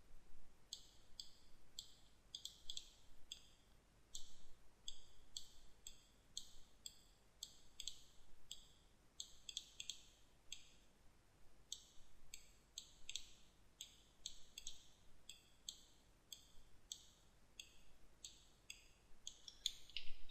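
Computer mouse clicking: faint, sharp single and double clicks at an irregular pace, about one to three a second, as objects are selected and moved in 3D modelling software.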